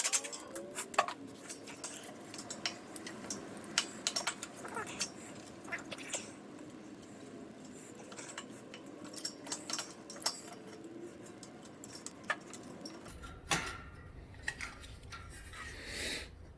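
Scattered small metallic clicks and clinks of hand work on a riding mower's engine, as its wiring and throttle linkage are unhooked.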